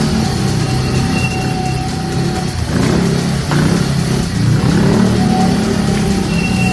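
Dirt bike engine revving and running under throttle, its pitch rising and falling.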